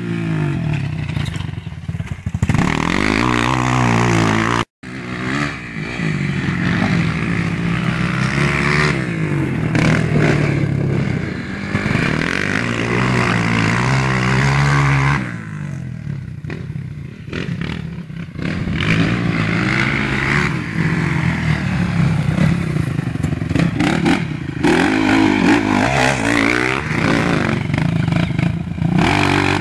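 Motocross dirt bike engine revving up and falling off again and again, as the throttle is opened out of corners and closed going into them. All sound cuts out briefly about five seconds in.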